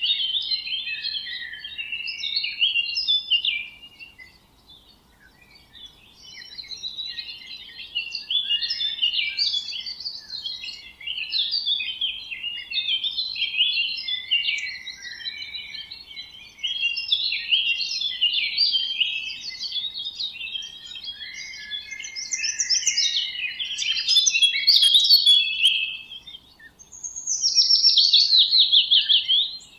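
Several songbirds singing and chirping at once, a dense chorus of quick overlapping chirps and trills, with a short lull a few seconds in and a loud run of descending notes near the end.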